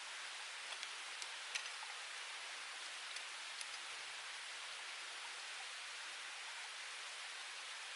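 Small wood fire burning in a UNIFLAME Nature Stove, a steady hiss with a few light crackling pops in the first half.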